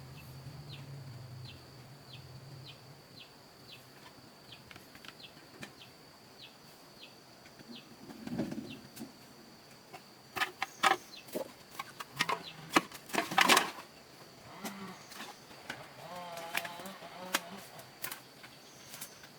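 Rural yard sounds: a steady high insect drone with short repeated chirps, then a cluster of loud sharp knocks or flaps, and a wavering animal call, likely a hen, near the end.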